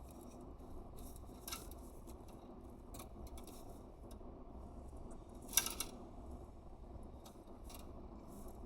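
Scattered small clicks and crackles over a steady low hum, the loudest a sharp click about five and a half seconds in.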